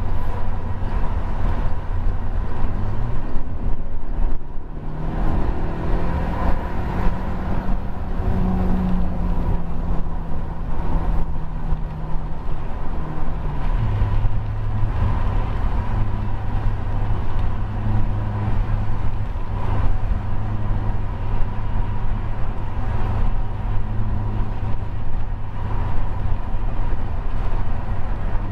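Volkswagen Jetta TSI's turbocharged four-cylinder engine heard from inside the cabin over road and tyre noise while driving on the highway. The engine note rises about three seconds in as the car accelerates, holds higher for about ten seconds, then drops back to a steady lower drone for the rest.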